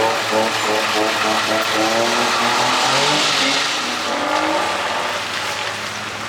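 Drift car's engine revving, its pitch rising and falling several times, with a rush of tire noise that swells about halfway through.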